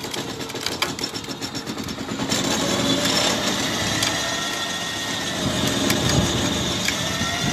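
An engine running steadily, louder from about two seconds in, with a few clicks in the first second.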